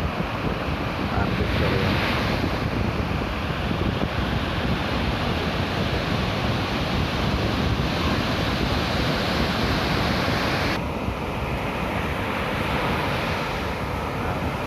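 Ocean surf breaking and rushing steadily, with wind buffeting the phone's microphone.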